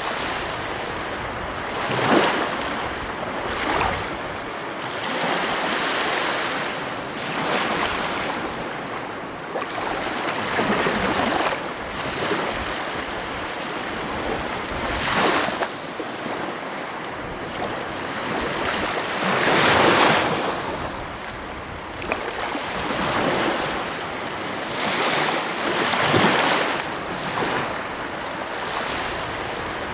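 Heavy ocean waves breaking on the coast: a continuous rush of surf with irregular swells every few seconds, the loudest crashes about two seconds in, near the middle and about twenty seconds in.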